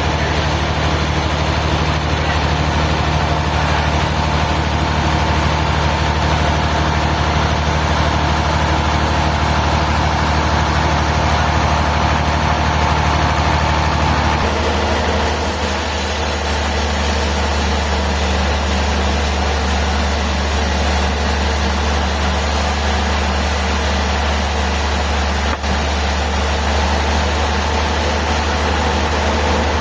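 A heavy engine running steadily at idle. Its low hum shifts about halfway through, and a high hiss joins it until near the end.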